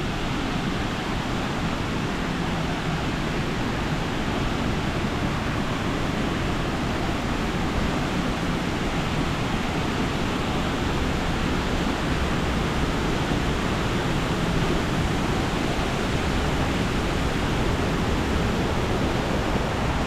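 Steady rushing of a waterfall in strong flow, a constant even roar of water.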